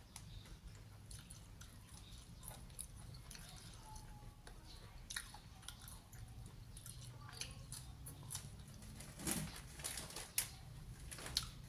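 A person chewing and biting crunchy battered fried food, with faint scattered crunches and mouth clicks that grow a little louder near the end.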